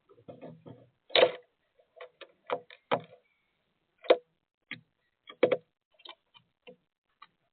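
Woodpecker pecking at sunflower seeds at a feeder: a dozen or so sharp, irregular taps and knocks. The strongest come about a second in, about four seconds in and near five and a half seconds.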